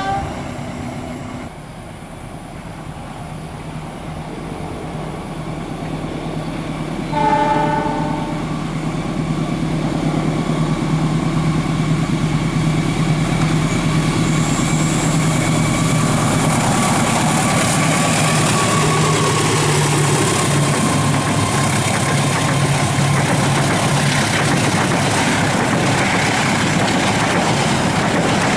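Passenger train sounding its horn briefly near the start and again about seven seconds in as it approaches. The rumble grows, and then the train rolls past steadily, its wheels clattering over the rail joints.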